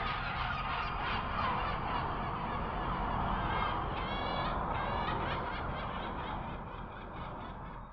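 A crowd booing and jeering, many voices overlapping; it fades near the end and then cuts off abruptly.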